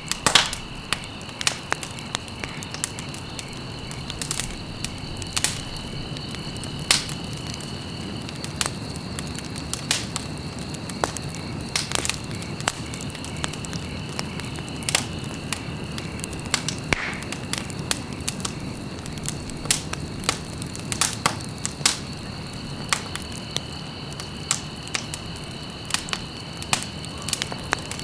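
Wood fire burning in a fireplace: irregular sharp crackles and pops over the low, steady rush of the flames.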